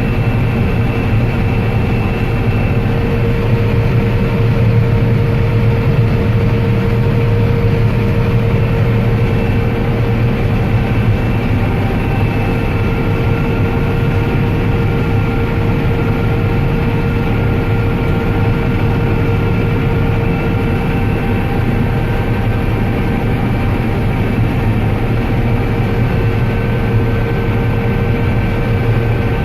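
Combine harvester running steadily while shelling corn: a constant, loud engine and threshing drone with a steady whine through it.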